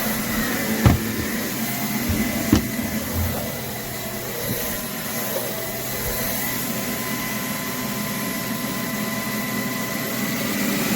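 Roborock H60 Ultra cordless stick vacuum running with a steady, fairly noisy motor whine, with a few short knocks in the first three seconds. Near the end its pitch starts to rise.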